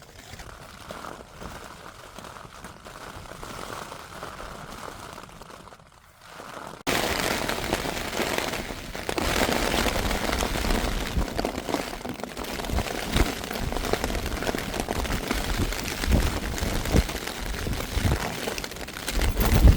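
Storm wind and heavy rain on a tent, quieter at first, then suddenly much louder about seven seconds in, with gusts buffeting the microphone.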